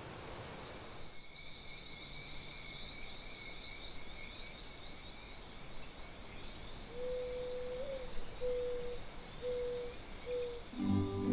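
Tropical forest chorus: a steady, fast chirping trill at two high pitches keeps going throughout. From about seven seconds in come a handful of low, held hoot-like notes, one long and then three short, and music begins right at the end.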